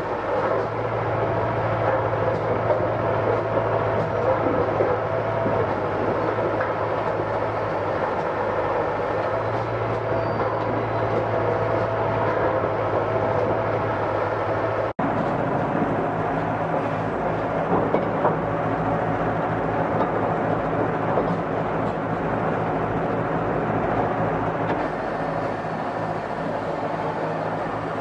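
Machinery running steadily with a continuous low engine-like hum. About halfway through there is a brief cut, after which the hum sits at a higher pitch.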